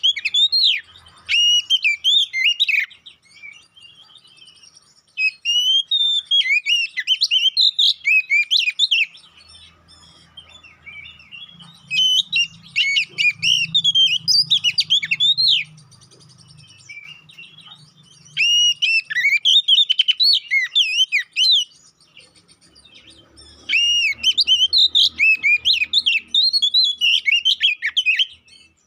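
Male Oriental magpie-robin (kacer poci) singing loud, fast fighting song. It comes in about five phrases of quick, varied whistles and trills, each a few seconds long, with short pauses between them.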